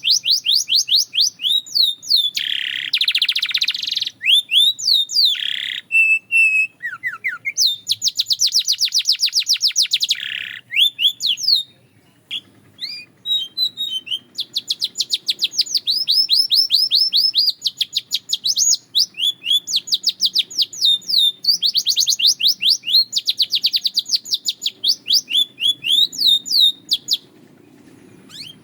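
Belgian canary singing a long song made of rapid trills, each a quick run of repeated high chirps, with a few denser buzzing rolls. The song pauses briefly near the middle and again near the end.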